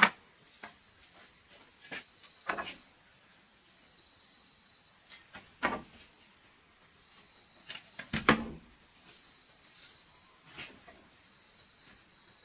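Insects trilling at a high pitch, starting and stopping in long stretches. Over this come a handful of sharp knocks a few seconds apart, the loudest at the start and about eight seconds in.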